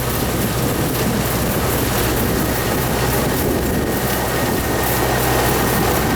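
A Yanmar farm machine's engine running steadily, a constant low drone.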